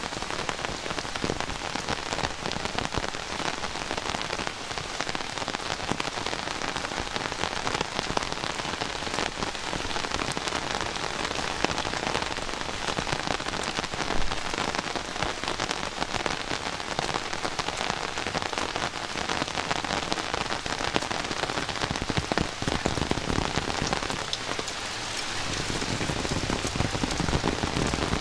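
Heavy rain falling: a steady, dense hiss of rain full of fine drop strikes. It thins for a moment around the last few seconds, then comes back a little louder.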